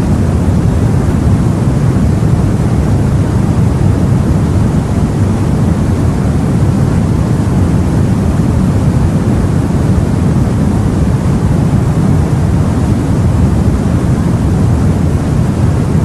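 Steady, low-pitched noise of wind and sea, even throughout, with no separate wave breaks.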